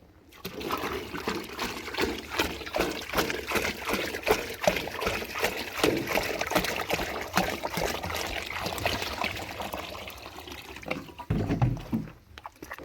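Water being poured out in a steady stream and splashing, with a few dull knocks near the end.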